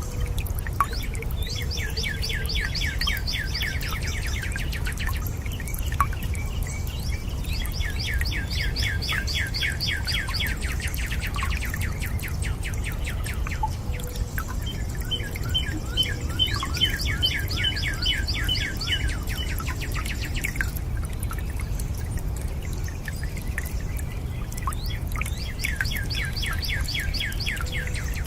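A songbird singing four rapid trills of quick repeated down-slurred notes, each lasting a few seconds, over a steady low rush of running water.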